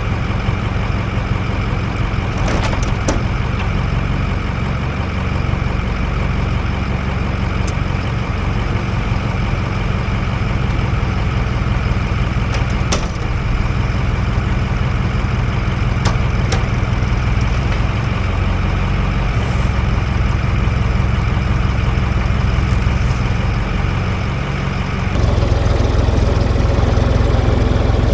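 Truck engine running steadily in drive while the truck tries to get out of deep mud, with a few brief clicks; it gets louder about 25 seconds in.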